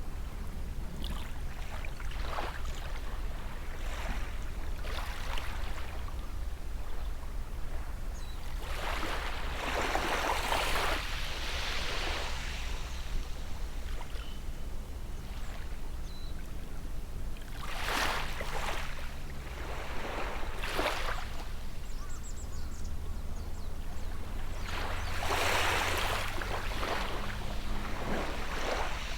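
Small sea waves washing onto the beach in separate surges every few seconds, each swelling and fading, over a steady low hum.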